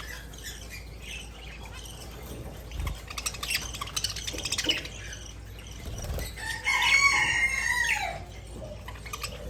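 Pet budgerigars chirping softly, with a run of quick clicks around the middle, then a loud, arching call about seven seconds in.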